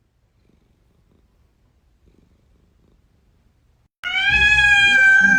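Near silence for about four seconds, then a cat's loud, long meow that holds one pitch and starts to fall at the very end.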